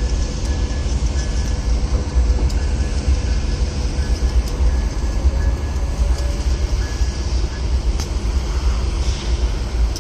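Bilevel commuter train pulling away down the track, a steady low rumble with a faint whine that rises slightly about halfway through.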